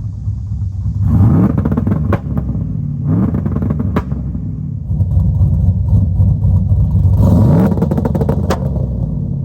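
Cammed 5.3 L V8 running through long-tube headers and small burnt-tip mufflers, idling and blipped three times, the pitch rising with each rev. A sharp pop follows each rev.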